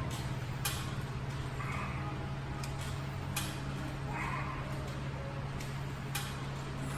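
A cat, likely a kitten, mewing faintly a couple of times over a steady low hum, with a sharp click about every three seconds.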